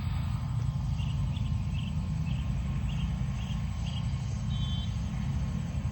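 Outdoor ambience: a steady low rumble, with short high chirps repeating about twice a second.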